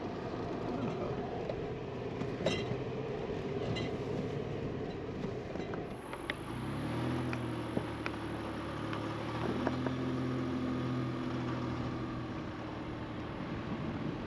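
A vehicle's engine running at low speed over a rough dirt road, with scattered knocks and rattles from the bumpy surface; the engine note changes about six seconds in.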